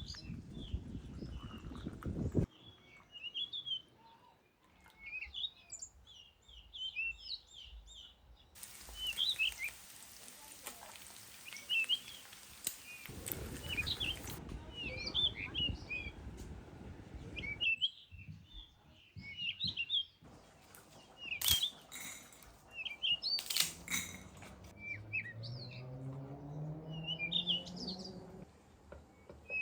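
Small birds chirping and twittering in short repeated calls throughout. A low rumble comes and goes, a hiss sounds in the middle, there are two sharp clicks about two-thirds of the way in, and a low hum rises in pitch near the end.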